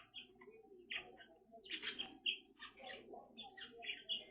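Indian ringneck parakeet giving soft, short chirps, several in quick succession.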